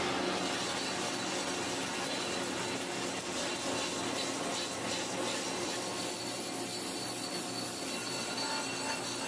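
Workshop machinery or a power tool running steadily, making a continuous noise with a faint steady hum.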